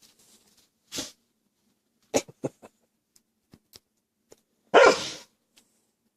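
A dog barks once loudly about five seconds in, after a softer short bark or huff about a second in. A few light clicks come around two seconds in.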